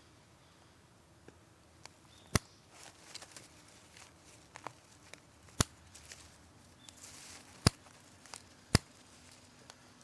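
Wood fire crackling: irregular sharp pops, four loud ones and several smaller crackles, over a quiet background with a brief soft hiss about two-thirds of the way through.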